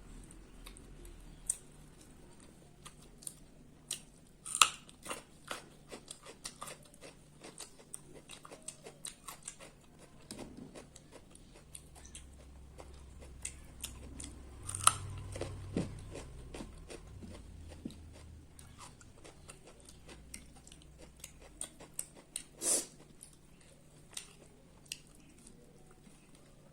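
A person chewing and eating a meal of rice close to the microphone: irregular wet mouth clicks and chewing sounds, with a few sharper clicks.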